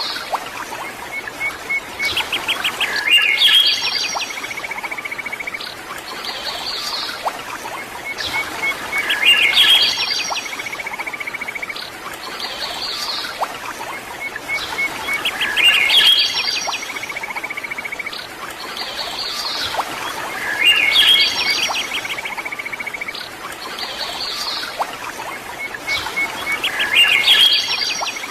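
Birdsong in which the same phrase returns about every six seconds: a rapid trill followed by louder chirps, so regular that it is a looped recording. It plays over a steady background hiss.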